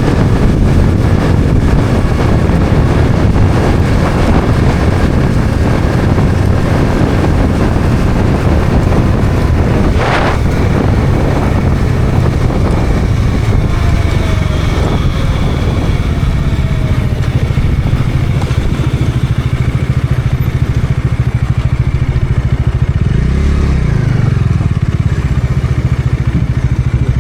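Bajaj Dominar 400's single-cylinder engine running steadily, with a short sharp click about a third of the way in and a brief rev that rises and falls near the end.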